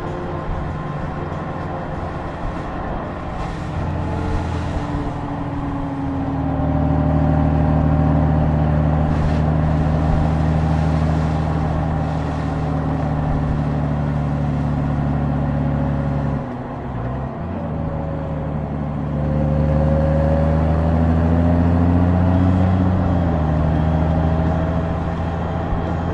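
Honda Gold Wing's flat-six engine running steadily while the motorcycle is under way. Its note breaks briefly about sixteen seconds in, then climbs and steps down at a gear change from the dual-clutch gearbox near the end.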